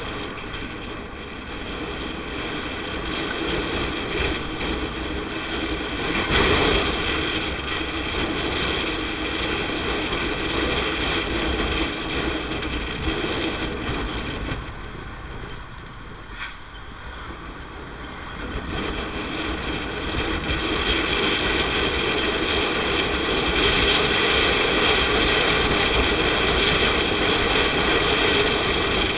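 Motorcycle on the move: engine running under steady wind and road noise, easing off for a few seconds past the middle, then picking up again and louder toward the end.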